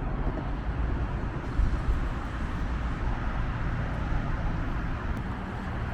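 Steady outdoor vehicle noise, a low even rumble of cars and traffic with no distinct events.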